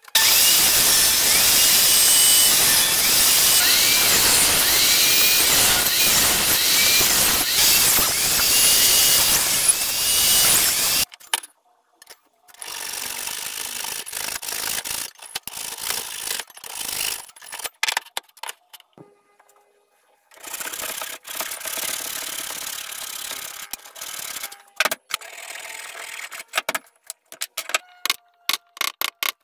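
Tools working wood: about eleven seconds of loud, continuous cutting noise, then, after a break, two quieter stretches of rasping cutting. Near the end come a run of quick, sharp taps.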